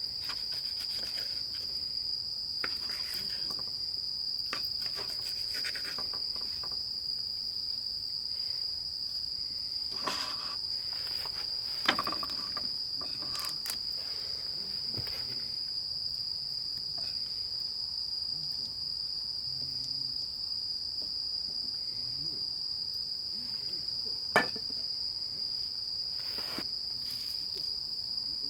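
Steady chorus of night insects, one unbroken high-pitched trill. Two short sharp clicks cut through it, one a little before halfway and a louder one near the end.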